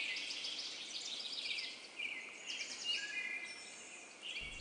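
Outdoor wildlife ambience: a dense chorus of high-pitched chirps and rapid trills from birds and insects, overlapping continuously.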